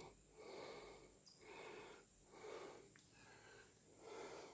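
A person breathing heavily close to the microphone: faint, regular breaths in and out, roughly one every second.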